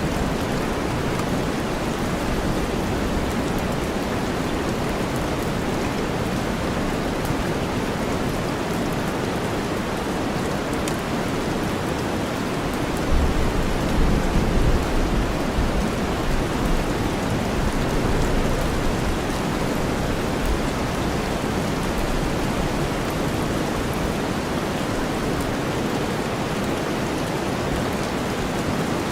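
Steady rain blended with deep white noise. A low rumble of thunder comes in about 13 seconds in and fades away several seconds later.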